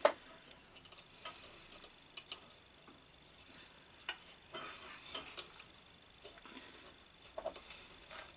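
Small-scale handling of electrical wiring: a sharp click at the start, then three spells of light scraping with scattered small ticks, as crimped spade connectors are worked onto terminals.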